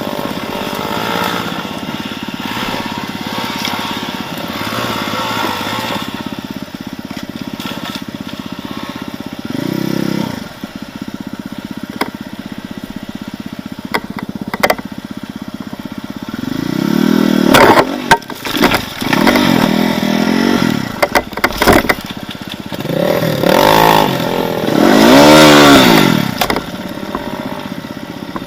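Off-road vehicle engine running along steadily, then revved hard twice in long bouts with the pitch swinging up and down as it works through rough forest ground. Sharp knocks and scrapes come in between, as the vehicle hits branches and obstacles.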